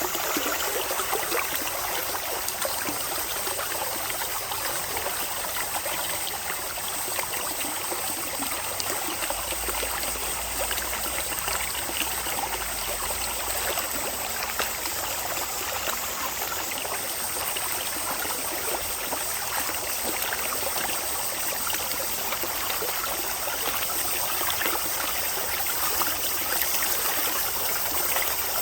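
Mountain valley stream flowing steadily, a continuous even rush of water over rocks.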